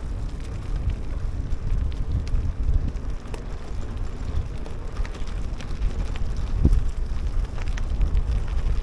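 Wind rumbling on the microphone of a handheld action camera while riding a gravel bike over a wet, muddy trail. Scattered clicks and knocks come from the bike on the rough ground.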